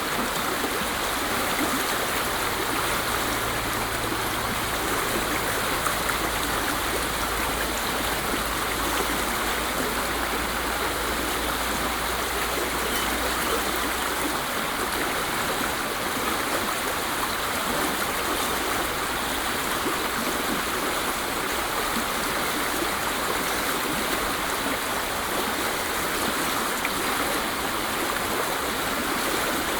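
Waterfall: a steady, unbroken rush of falling water. A faint low hum sits underneath for about the first half, then fades.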